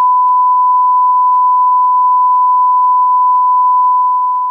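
A single loud, unbroken electronic beep at one steady pitch, held for about four and a half seconds. It starts and cuts off abruptly, like a test tone.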